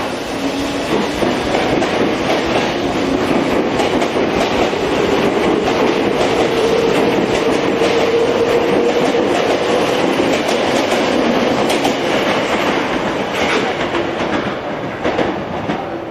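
Tokyo Metro 5000 series train running on the rails, with wheels clacking over rail joints and a steady whine in the middle; it eases off somewhat near the end.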